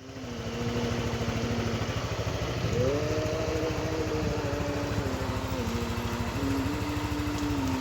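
Yamaha NMAX 155 scooter's single-cylinder engine running at idle, its pitch rising slightly about three seconds in and settling back down a couple of seconds later.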